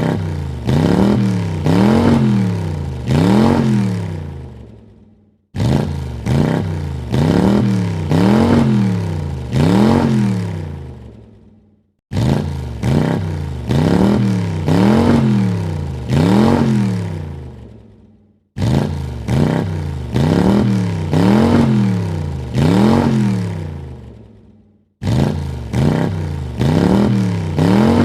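Car engine revved in quick blips, about four rises and falls in pitch per burst, each burst then fading away. The same rev sequence repeats about every six and a half seconds.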